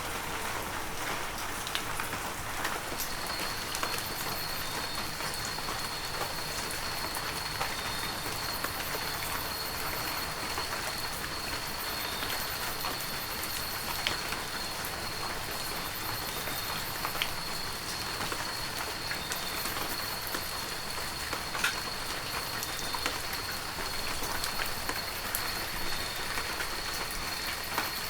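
Heavy rain falling steadily, with scattered sharper drops striking close by. About three seconds in, a thin, steady high tone joins the rain and holds.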